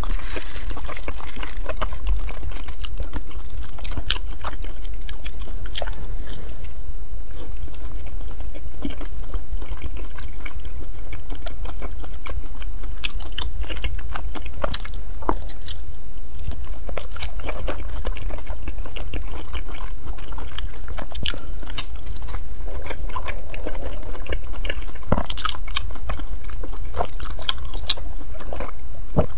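Close-miked eating sounds of a soft, filled rice cake: wet chewing, biting and mouth clicks, over a steady low hum. Near the end, a sip through a straw.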